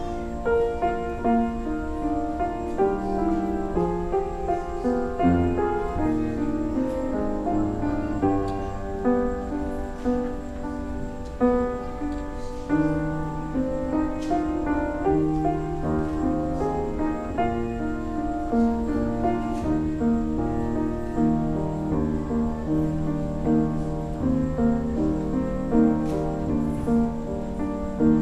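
Slow instrumental keyboard music: held chords over long sustained bass notes.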